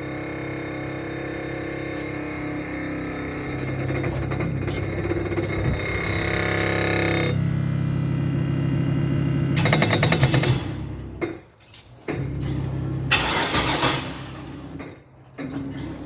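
Small-block V8 engine running, rising in pitch a few seconds in and running louder after that. The sound drops away suddenly twice in the latter half.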